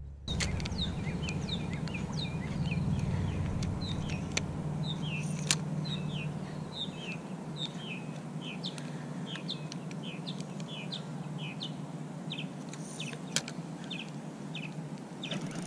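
A bird chirping over and over in short falling chirps, several a second, over a low steady rumble that fades out about halfway through; a few sharp clicks.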